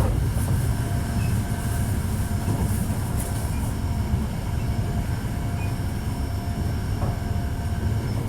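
Hankyu 1300 series electric train running between stations, heard from inside the car: a steady low rumble of wheels on track with a faint, even whine above it. The trainset is one its recordist calls an 'abnormal-noise car' (異音車).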